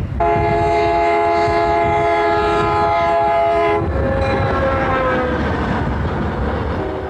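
Locomotive horn sounding one long chord blast that stops after about four seconds. A lower tone then slides slightly downward over rumble and fades away, as the train passes.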